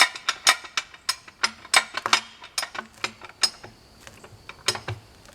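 A metal jack being worked by hand to raise a log, clicking sharply a few times a second as it is pumped, with a short pause before the last few clicks.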